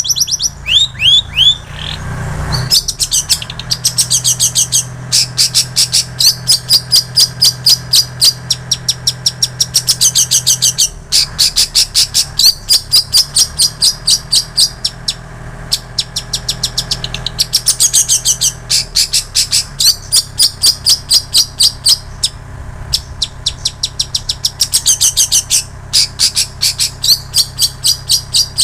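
Long-tailed shrike (cendet) singing a mimicked repertoire of prinia (ciblek sawah) and canary song: long runs of rapid, repeated high chirps in phrases a few seconds long, broken by short pauses. A steady low hum runs underneath.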